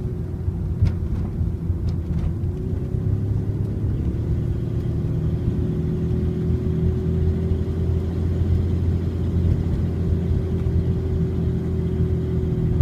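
Car running on the road, heard from inside the cabin: a steady low engine and road drone whose pitch steps up slightly about four seconds in.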